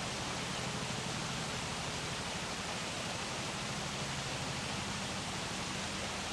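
Steady rushing of river water flowing over concrete blocks, an even hiss with a faint low hum beneath it.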